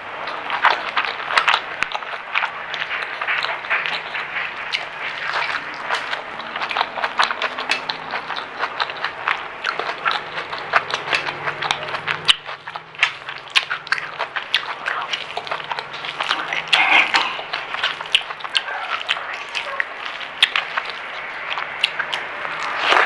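Close-miked chewing of food: a dense, irregular run of small crunchy clicks and crackles from the mouth.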